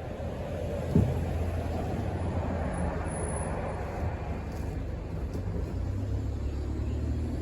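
Steady low rumble of a motor vehicle, with a single sharp thump about a second in.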